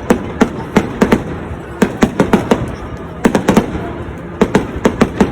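Fireworks going off: a rapid, irregular run of sharp bangs, several a second in bursts, with short pauses between the clusters.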